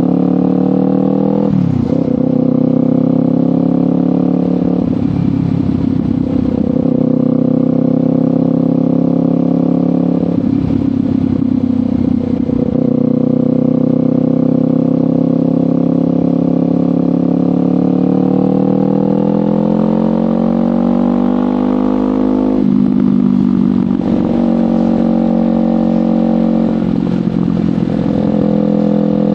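Kawasaki Ninja 500's parallel-twin engine through a LeoVince GP Corsa Evo slip-on exhaust, under way: the engine note climbs steadily and then drops sharply several times as the rider shifts gears, with short rougher stretches between pulls and one long slow climb before the last drop.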